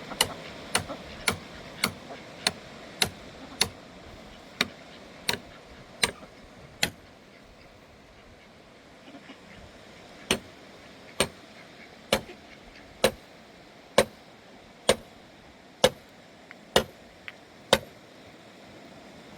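Repeated sharp blows of a hand tool striking something hard. About eleven come in a quick even run of nearly two a second, then after a pause of about three seconds nine more follow at a slower, steady pace of about one a second.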